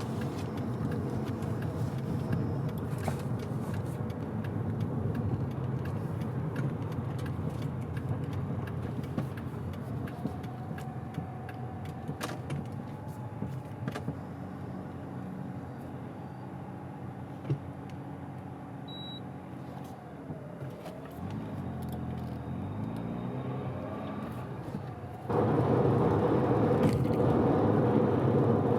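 Mazda FD3S RX-7's twin-turbo 13B rotary engine and road noise while driving, the engine freshly rebuilt and being run in gently. Its pitch eases and dips as the car slows a little past halfway. A short electronic beep sounds about two-thirds through, and about 25 seconds in the engine sound suddenly steps up louder.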